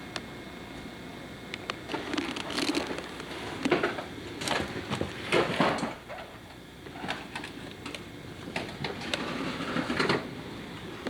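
Irregular rustling and clattering, with sharp clicks and several louder scraping bursts, heaviest in the middle and again near the end.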